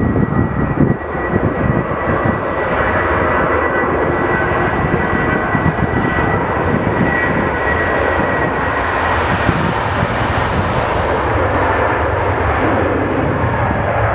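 Jet airliner engines close by: a loud, steady rush with a high whine that fades out about two-thirds of the way through as the hiss briefly swells.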